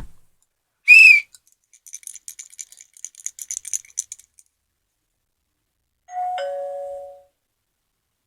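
A short, bright ping about a second in, then a quick, high-pitched rattle for about two seconds, and near the end a two-note falling ding-dong like a doorbell chime.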